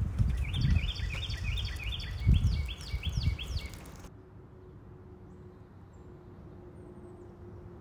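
A small bird calling a rapid series of short chirps that slide downward in pitch, over gusts of wind rumbling on the microphone. Just over halfway through, both cut off at once, leaving a faint background with a low steady hum.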